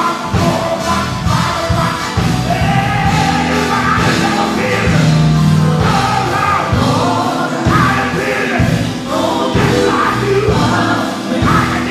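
Live gospel group singing with a full band: voices in harmony over drums, bass and keyboards with a steady beat.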